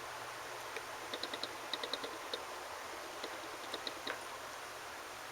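Faint, light metallic clicks and ticks in small clusters as a trouser clamp hook is handled and its prongs are pressed through the waistband fabric.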